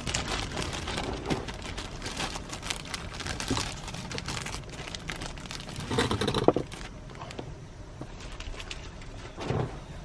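Plastic packaging crinkling, with scattered light clicks and taps, as blueberries are handled and added to a pot of oatmeal.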